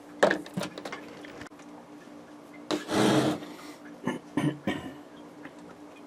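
Small parts and wires being handled: a quick run of clicks and taps, a brief rubbing rustle about three seconds in, then a few more clicks, over a steady low hum.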